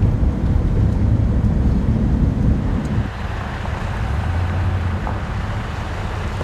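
Low rumble of a vehicle driving, with wind noise; the rumble drops about three seconds in.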